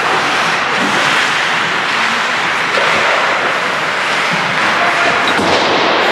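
Steady, loud rink noise during an ice hockey game, with a few faint knocks.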